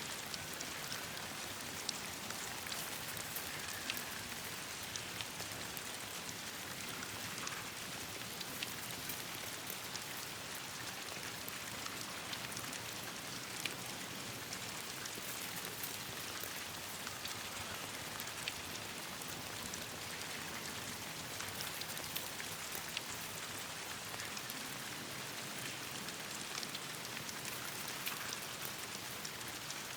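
Steady rain falling on leaves and branches, an even hiss with many scattered sharp ticks of individual drops or pops.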